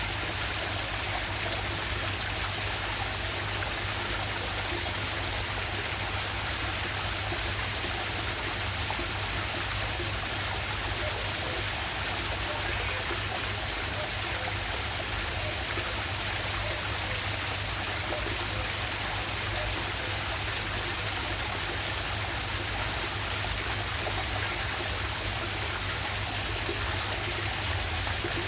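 Steady rush of water from a small waterfall and stream, an even hiss with no breaks.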